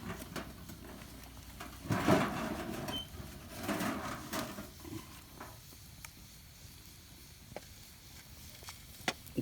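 Wood campfire crackling, with scattered sharp pops and clicks, and two louder bouts of rustling and scraping about two and four seconds in as firewood is shifted in the fire.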